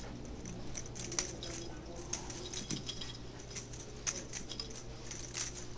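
Faint, scattered light clicks and taps as kittens bat and jump at a toy dangling on a string, over a steady low hum.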